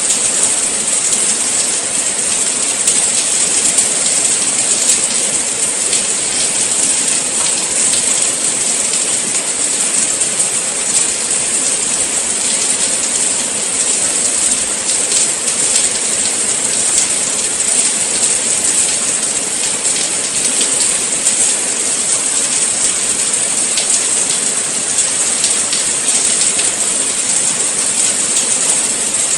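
Steady rain falling, a dense even hiss of many fine drops with no change in strength.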